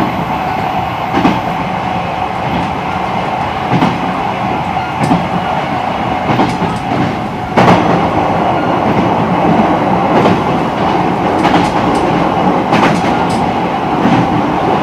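E129 series electric train running, heard from on board: a steady running noise with a constant tone, and wheels clicking irregularly over rail joints. The noise gets louder about seven and a half seconds in.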